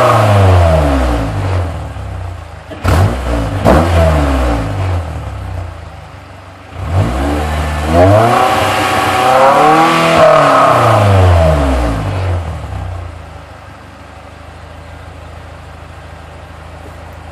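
Honda S2000's F20C 2.0-litre inline-four, breathing through a 4-1 header and a test pipe in place of the catalytic converter into stock mufflers, being revved while parked. Revs fall away from high, two quick throttle blips come about three seconds in, then the engine revs up to high rpm and holds there for a few seconds before dropping back to a steady idle.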